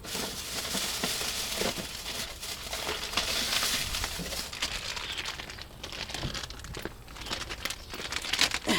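Plastic or paper packaging crinkling as it is handled and unwrapped, with small clicks and knocks throughout.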